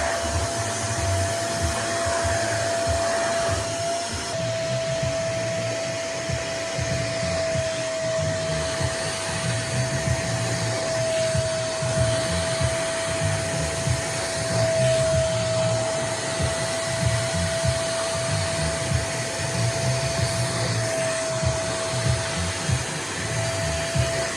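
Nunix wet and dry vacuum cleaner running continuously as a blower: a steady, unchanging motor whine over a rush of air.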